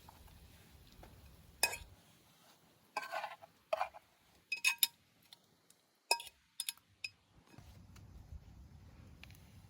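Camp cookware and utensils clinking and knocking together in a handful of sharp, short clinks, some with a brief metallic ring.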